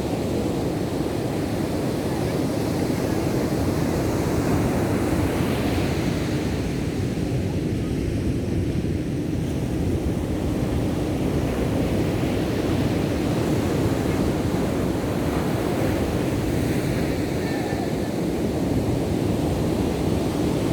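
Ocean surf breaking on the shore: a continuous rush of waves that swells and eases slightly.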